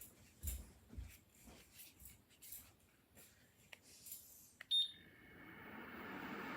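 Light clicks and taps, then a short electronic beep from a ceramic fan heater's controls about five seconds in. After the beep the heater's fan starts up and its blowing noise rises to a steady level.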